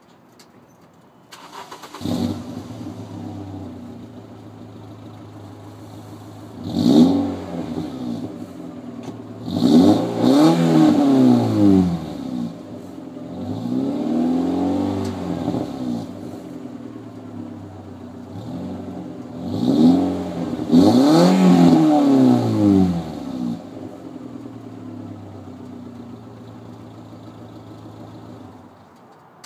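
1999.5 Volkswagen Jetta (Mk4) with a straight-piped exhaust starting up about two seconds in and settling to an idle. It is revved in a series of rising and falling blips, a few of them long, then drops back to idle and is switched off near the end.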